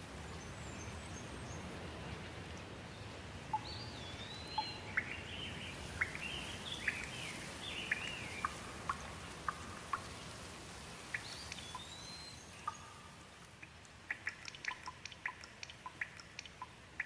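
Steady rain, easing off, with a songbird singing a whistled phrase twice through the middle. Near the end the rain noise drops and a quick run of water drips ticks out.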